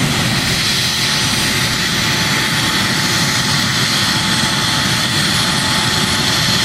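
Four gas turbine engines of a pulling tractor running steadily, a jet-like rush with a thin, steady high whine over it.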